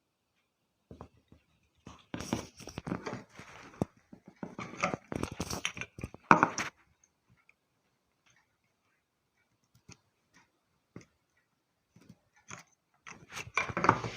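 Small plastic and metal parts of an LED bulb being handled while its two wires are connected: irregular clicks, taps and crackly rustling in two busy stretches, with a quieter gap in the middle.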